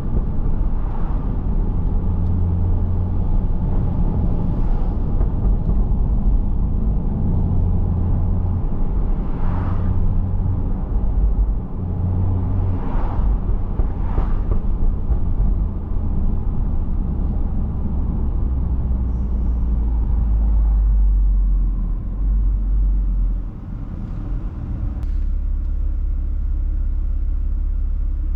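Tuned BMW 335i's turbocharged inline-six engine and catless exhaust running under way, heard from inside the cabin along with road noise. It drones low and steady, with a few brief surges, and drops off about 23 seconds in before settling into a steadier, lower hum.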